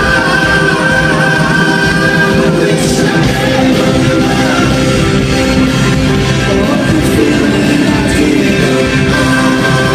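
Rock band playing a song with singing over guitars and drums.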